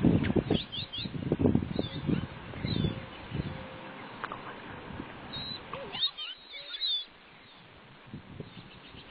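Small birds chirping and twittering in short curved calls, over low rumbling noise in the first few seconds that drops away about seven seconds in.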